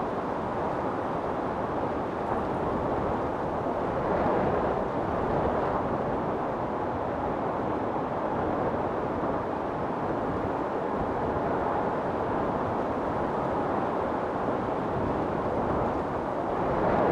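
Storm wind blowing hard and steadily, with gusts swelling about four seconds in and again near the end.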